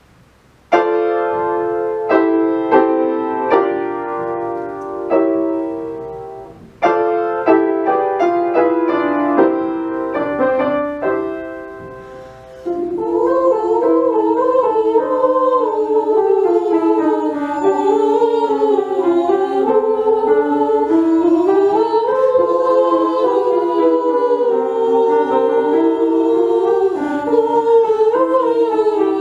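A piano introduction of struck chords lasting about twelve seconds, then a vocal ensemble singing the melody in harmony over the piano accompaniment.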